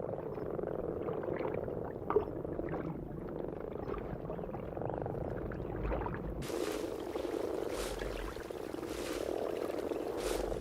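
A breeding chorus of brown frogs (common frogs) massed in shallow water to spawn: many low croaks overlapping into one steady chorus. Water splashing joins in from about six seconds in.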